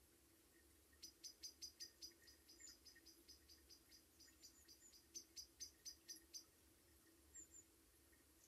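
Faint bird calls: a rapid series of short, high chirps, several a second, for about five seconds, then two more high notes near the end.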